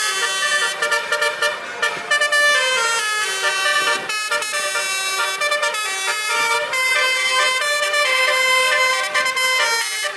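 Basuri custom truck horns playing a melody: several horn tones sounding together and stepping from note to note, with a few sharp clicks.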